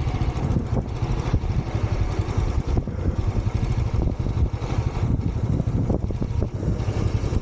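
Motorcycle running along the road while being ridden, a steady low rumble.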